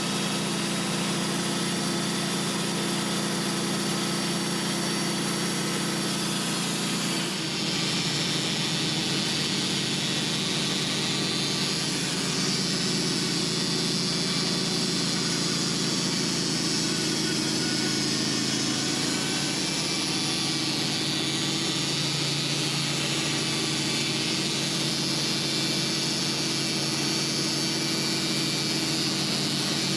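Sawmill engine running steadily. About seven seconds in its sound shifts, and a higher hiss comes in a few seconds later.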